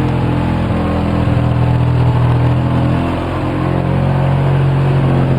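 2004 Polaris Sportsman 700 twin-cylinder engine idling on partial choke, dipping slightly about three seconds in and picking up again. It needs the choke to stay running, a rough idle the owner puts down to the carburetor boot.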